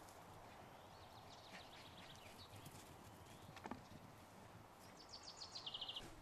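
Quiet outdoor background with a small songbird giving a quick trill of high chirps that steps down in pitch near the end.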